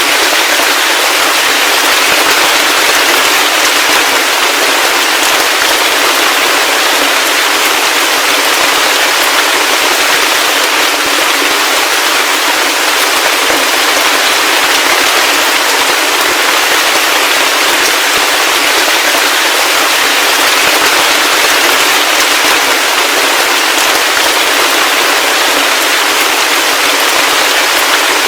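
Heavy rain falling steadily: a loud, dense, unbroken patter with no low rumble beneath it.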